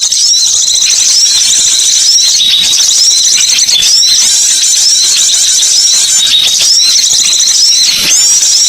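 Dense chorus of high-pitched twittering calls from many small birds, overlapping without pause: a bird-lure recording.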